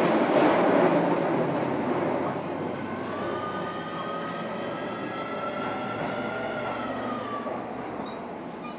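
Keio 7000 series electric train running, heard from inside motor car DeHa 7271. The loud rumble of the running gear eases off over the first couple of seconds. From about three seconds in, a whine rises slightly, holds, then dips and fades about a second before the end.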